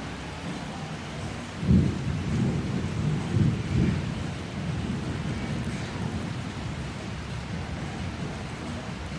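Thunder rumbling over steady heavy rain in a tropical rainstorm: a sudden low clap a little under two seconds in, a second swell a couple of seconds later, then a rolling rumble that fades while the rain hisses on.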